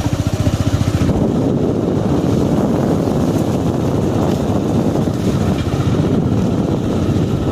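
A motor vehicle's engine running steadily close by, its rapid, even pulses going on without a break.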